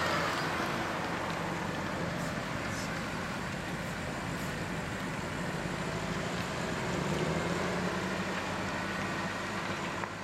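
Car engine running with tyre and road noise, a low steady engine note that swells slightly about three quarters of the way through.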